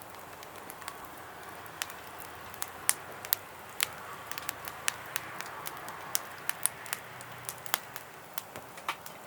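Fire of compressed sawdust briquettes crackling in an open fire pit: a steady soft hiss with irregular sharp pops, a few a second.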